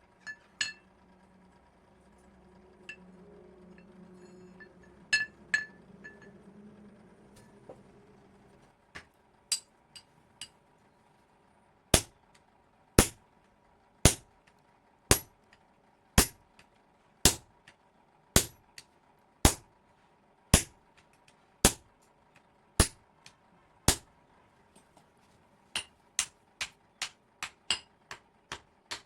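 Hammer striking metal on an anvil: a few scattered clinks at first, then a run of about a dozen evenly spaced heavy blows, roughly one a second, followed by quicker, lighter taps near the end.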